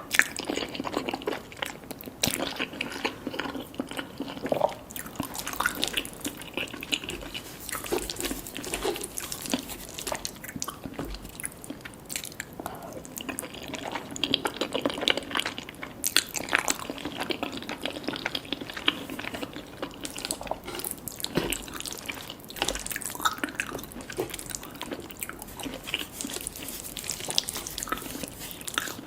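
Close-miked eating sounds: a person chewing a wet, saucy mouthful, with many small clicks and smacks and no crunch.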